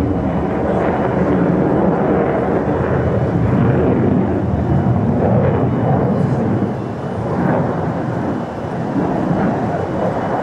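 An F-35A fighter jet's engine, a Pratt & Whitney F135 turbofan, giving a loud, deep rumble as the jet flies its display, easing somewhat after about six and a half seconds.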